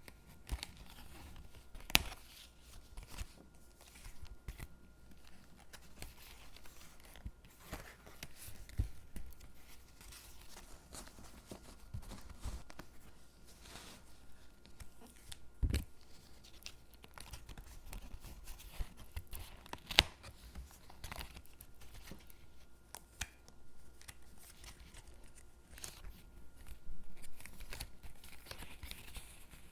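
Stickers being peeled from their backing sheet and pressed onto paper gingerbread cutouts: soft peeling and paper rustling with scattered light taps and clicks, and a duller knock about halfway through.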